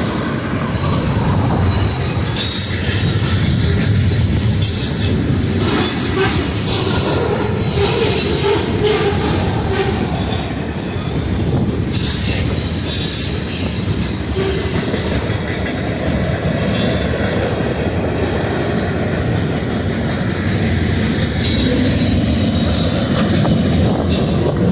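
Freight train cars rolling past with a steady, loud rumble, and high-pitched wheel squeals that come and go every few seconds.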